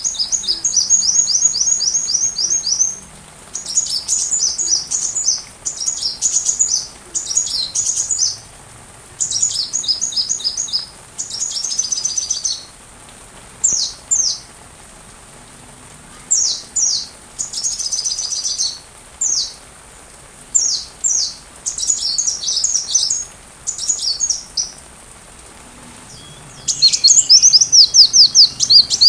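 Sunbird song: rapid, high-pitched chirping phrases lasting a second or a few seconds each, separated by short pauses, with a louder, busier run near the end.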